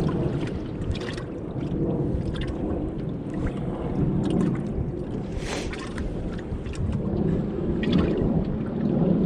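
Gusting wind buffeting the microphone on a small fishing boat, with water lapping and knocking against the hull in short sharp splashes.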